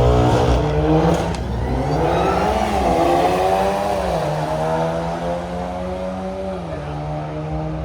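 A car engine running under throttle. Its pitch climbs and dips around three seconds in, holds steady, then drops about six and a half seconds in.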